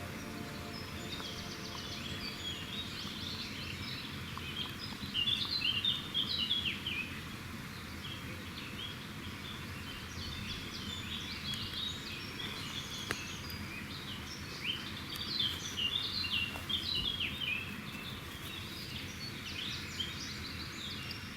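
Small songbirds chirping and singing, many short quick notes, over a steady background hiss, with livelier bursts of song a few seconds in and again past the middle.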